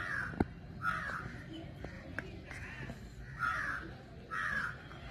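A bird calling repeatedly in short harsh calls, about five of them. Sharp clicks of a small spoon against a miniature clay pot come in between, the loudest a little under half a second in.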